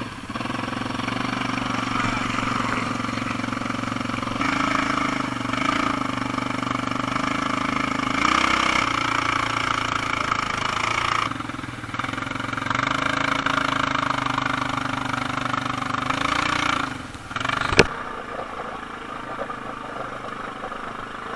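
Quad-bike (ATV) engine running, revved up in several surges and then eased back, as the machine tries to pull out of deep mud where it is stuck. One sharp click near the end.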